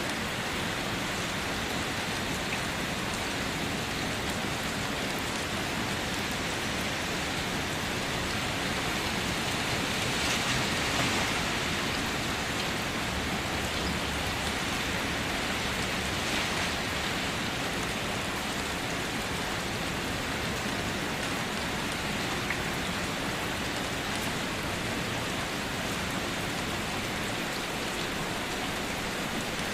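Steady rain falling as an even hiss, swelling a little about ten seconds in.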